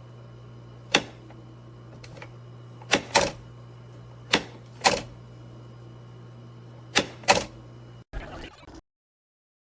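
A series of about seven sharp clicks, several in close pairs, over a steady low electrical hum. Near the end comes a brief rustle, and then the sound cuts off.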